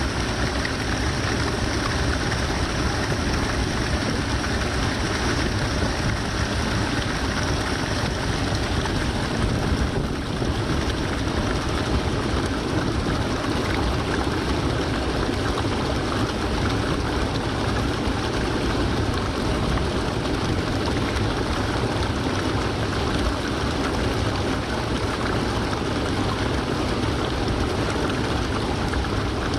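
Haruru Falls waterfall: water pouring and splashing in a steady, unbroken rush.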